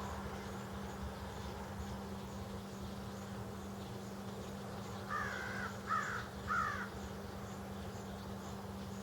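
A bird gives three short calls in quick succession a little after halfway, over a steady low hum and faint high ticking about twice a second.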